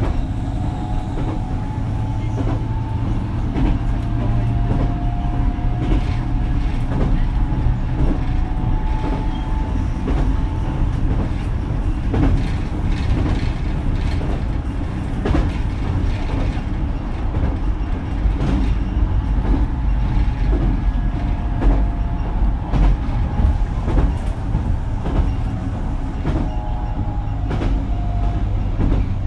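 Running noise heard inside a JR Kyushu BEC819 series battery-electric train at speed. There is a steady low rumble, with wheels clicking repeatedly over rail joints and a faint motor whine that drifts up and down.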